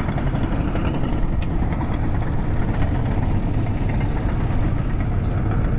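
A vehicle engine running steadily, a low pulsing rumble.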